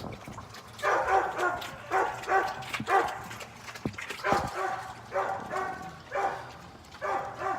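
A dog barking repeatedly in a string of short barks, about two a second, starting about a second in.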